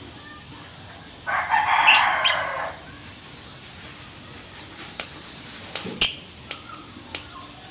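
Lovebird calling: one harsh call about a second and a half long starting just over a second in, with a few sharp, short chirps, the loudest about six seconds in.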